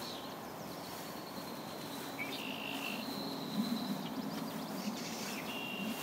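Birds calling, with several thin, high, held whistled notes over a low background hum that swells a little past the middle.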